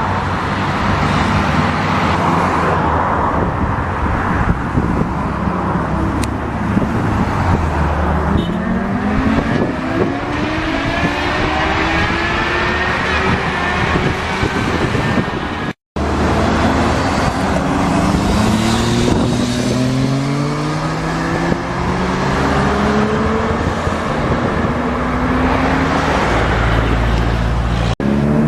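Sportbike engine accelerating hard, its note climbing steadily in pitch through several gears over rushing wind and road noise. The sound cuts out abruptly for an instant about halfway through.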